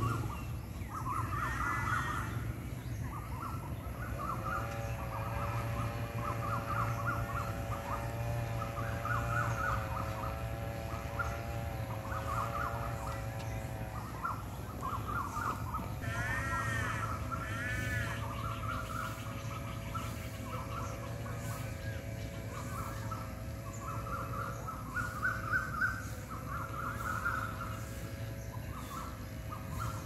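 Birds chirping over and over, with a few louder arching calls about two seconds in and twice a little past the middle. Under them run a steady low hum and a steady droning tone that comes in about four seconds in and breaks off briefly near the middle.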